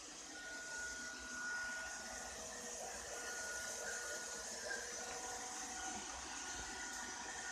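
Ropo Glass robot vacuum running, a steady whirring hiss with faint high whining tones that come and go.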